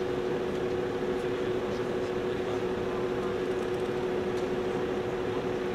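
Steady mechanical hum holding two constant tones over an even rushing noise, unchanging throughout.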